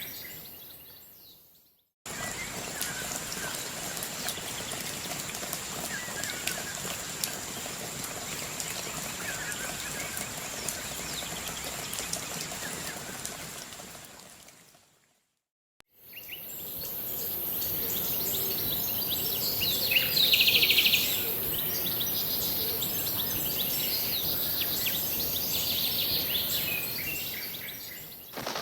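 Birds calling and chirping over a steady hiss of background noise, in two separate stretches that each fade in and out. A louder call comes about twenty seconds in.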